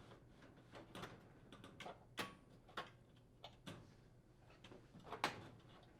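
Faint, scattered clicks and light scrapes as the induction range's main top is slid back into place over the induction coils; the sharpest knock comes about five seconds in.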